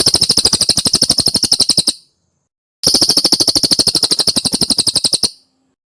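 Cililin bird song: two rapid, even trills of about twelve sharp notes a second, each about two seconds long, with a short pause between them.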